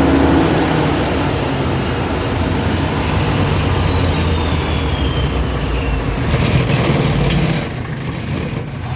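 Cummins 400 kVA open-type diesel generator set running, with a thin high whine that falls steadily in pitch over about five seconds; about seven and a half seconds in the engine sound drops away, the set winding down at the end of its load test.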